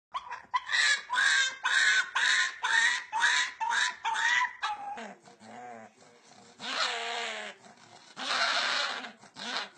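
A dog vocalising: a run of about seven short, high, pitched calls, a little under two a second, then lower, rougher calls and longer breathy sounds.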